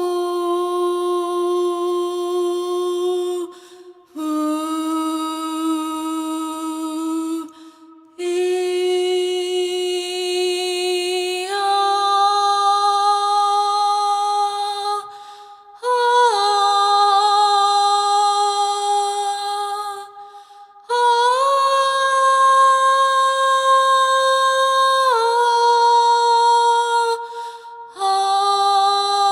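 One person's voice toning long held notes, about seven of them, each several seconds long with a short breath between. The pitch steps up or down from note to note and sometimes within a note. This is improvised vocal toning of one's own inner sound, as used in sound therapy.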